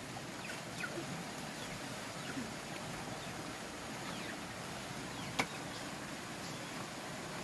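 Outdoor rural ambience: a steady hiss with faint short chirps, and one sharp knock about five seconds in.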